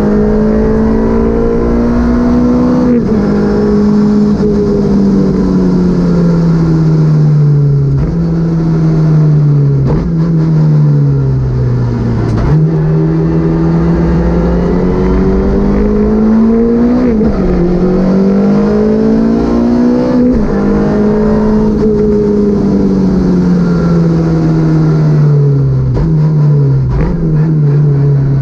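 Citroën Saxo VTS rally car's 1.6-litre four-cylinder engine heard onboard, climbing in pitch under acceleration and sinking as the car slows, with sudden drops at gear changes several times.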